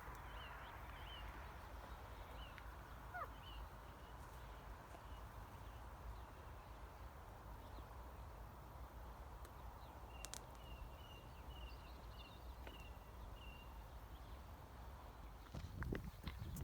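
Faint outdoor ambience: a small bird calls with short chirps, a run of them starting about two-thirds of the way through, over a low steady rumble.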